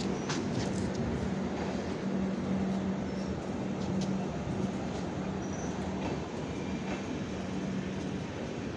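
Passenger train coaches rolling along steadily as the train pulls out of the station, a constant rumble with a steady low hum and a few sharp clicks from the wheels on the track.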